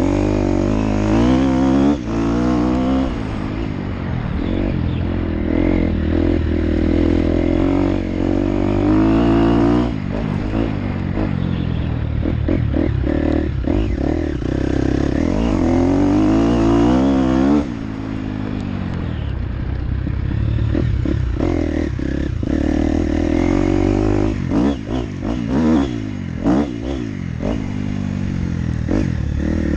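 Motocross dirt bike engine being ridden, revving up and falling back again and again as the throttle opens and closes. Sharp clattering knocks cluster in the last few seconds.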